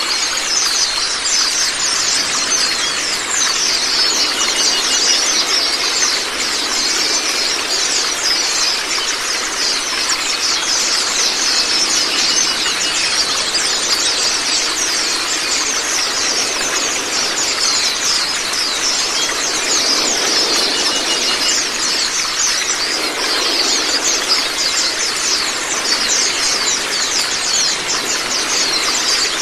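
A flock of white-eyes (Zosterops) chattering in a dense, unbroken stream of quick high-pitched calls over a steady rush of running water.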